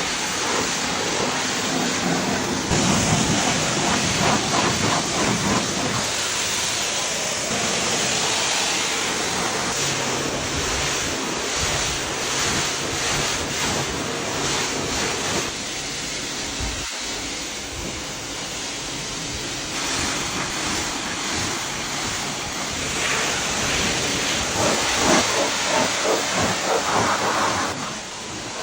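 Spray hissing during car cleaning, a steady hiss that swells and eases as it is worked over the car. There is a brief sharp click about 17 seconds in.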